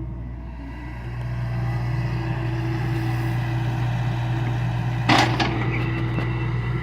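John Deere excavator's diesel engine running steadily and building slightly after about a second. A short, sharp clank about five seconds in stands out as the loudest moment.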